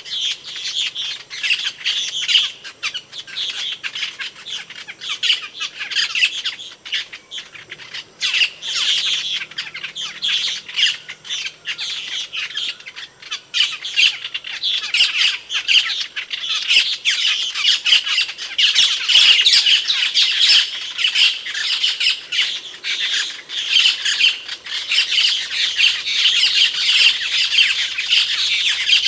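Asian glossy starling calling: a dense, rapid run of sharp, high squeaky calls that grows busier and louder about halfway through.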